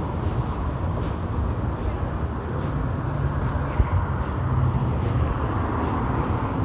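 Steady low engine rumble with a noisy wash over it, and one short knock a little under four seconds in.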